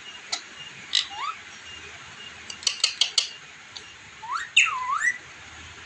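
Parrot whistling and clicking: sharp beak-like clicks and a short rising whistle, a quick run of clicks about halfway, then a longer whistle that rises, falls and rises again near the end.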